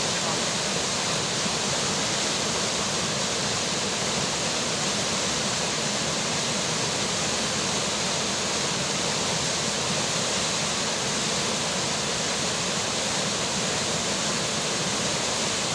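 River water rushing steadily, with rain falling: an even, unbroken rush of water.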